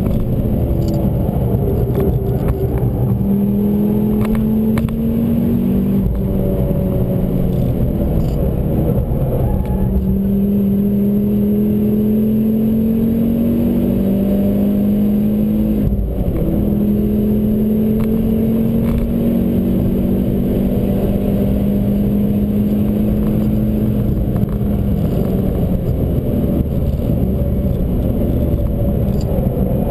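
Ford Focus RS engine heard from inside the cabin while driving at speed, its pitch climbing in several long pulls broken by gear changes, over steady road and tyre noise.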